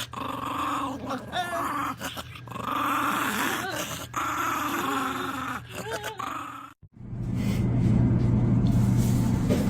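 A dog growling in a series of long, wavering grumbles, each a second or two long, the warning growl of a dog that will bite if touched. About seven seconds in it cuts off, and a steady low hum follows.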